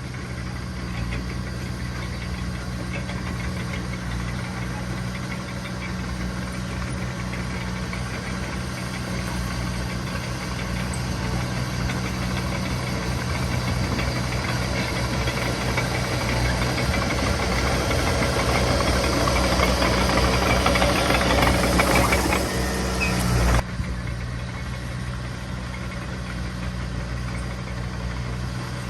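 Diesel engine of heavy earthmoving machinery running steadily. It grows louder and busier over about twenty seconds, then drops sharply about 23 seconds in to a quieter steady run.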